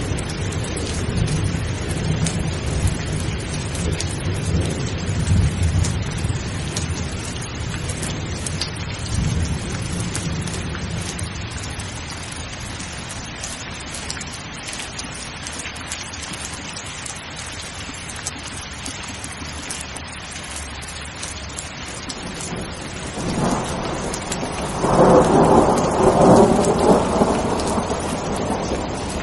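Steady rain pouring, with thunder. A low rolling rumble fades over the first third. About three-quarters of the way in, a louder peal of thunder builds and crashes, peaking near the end.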